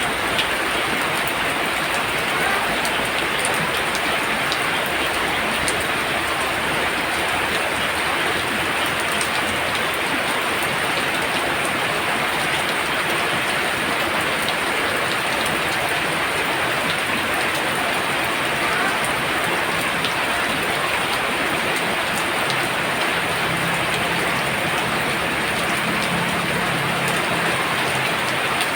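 Heavy rain pouring down in a steady, dense hiss, a hard downpour with no letup.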